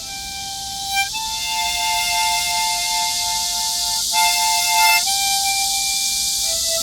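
Harmonica playing a slow hymn melody in long held notes, often sounding two notes together, with cicadas droning steadily in the background.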